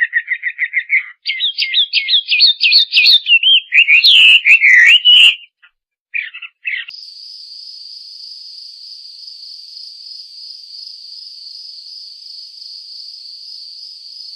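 Bird chirping in quick, trilled, pitch-bending phrases for about five seconds, then two short chirps. After that, a steady high-pitched buzz with a slight waver runs until shortly before the end.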